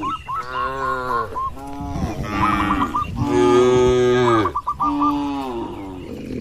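Cattle mooing: several moos one after another, each call falling in pitch.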